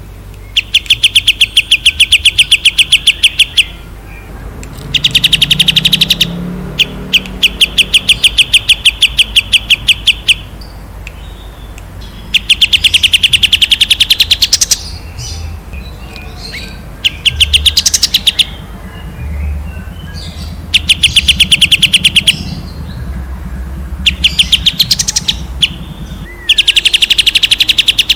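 A songbird repeatedly singing loud, rapid trills, the fast rattling 'tembakan' phrases prized in masteran recordings for training captive songbirds. Each burst lasts about one to four seconds, with short pauses between.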